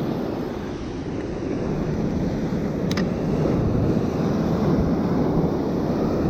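Heavy ocean surf rumbling against the shoreline, with wind buffeting the microphone. It swells louder about halfway through, and there is a single faint click about three seconds in.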